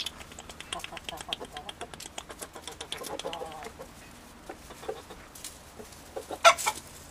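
Chickens clucking, with many short quick calls, and one sudden loud sound about six and a half seconds in.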